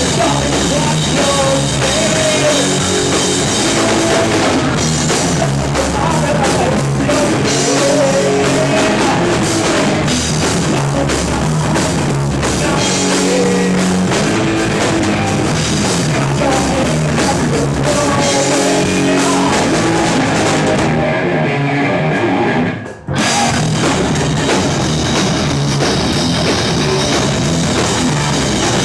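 Rock band playing live on drum kit and guitar, with a brief break about 23 seconds in before the full band comes back in.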